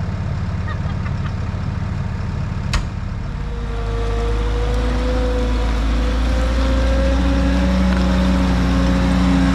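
Tracked skid steer's engine running at idle, a sharp click a little under three seconds in, then the engine speeds up and runs louder and steady, with a faint whine over it.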